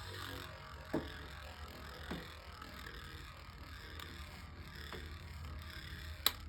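A few faint knocks and clicks of small plastic toy parts being handled, over a steady low background hum.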